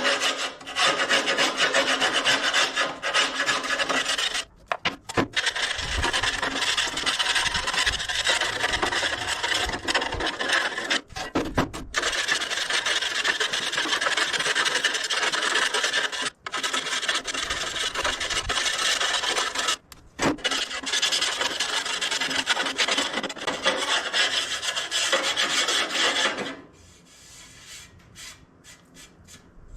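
Angle grinder scouring paint and dirt off a tractor's front weight, with the motor's steady hum under a harsh scraping. The scraping breaks off briefly a few times and stops about 26 seconds in.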